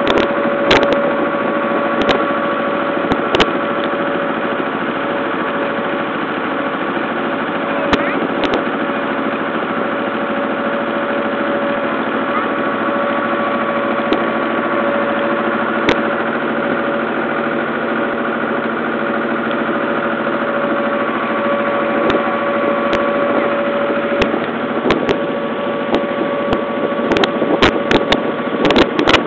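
A small river ferry boat's motor running steadily with an even hum, with a few sharp knocks now and then, more of them near the end.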